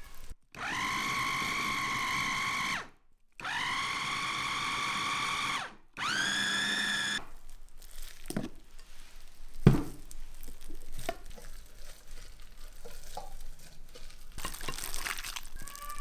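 Electric kitchen blender motor run in three bursts, its pitch rising as each one spins up, grinding food. Then scattered clicks and knocks of handling, with one sharp knock near the middle and some rustling near the end.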